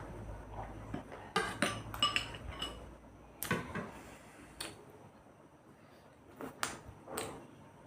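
Cutlery knocking and clinking against plates and bowls during a meal: a quick run of clinks in the first few seconds, then single knocks every second or so.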